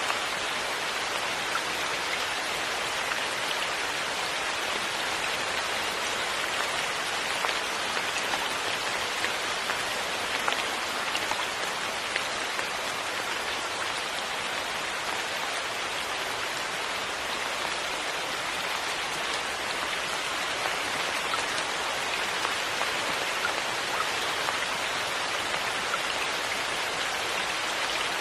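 Steady, even rain falling, with scattered faint drop ticks.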